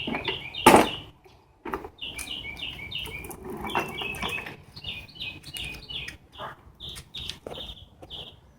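Small birds chirping in quick repeated runs of short, downward-sliding notes throughout. A single sharp knock stands out, the loudest sound, about a second in.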